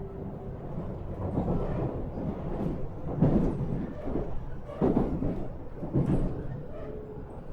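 Running sound inside a JR 313 series electric train: a steady low rumble from the wheels and bogies, with three heavy knocks from the track about three, five and six seconds in.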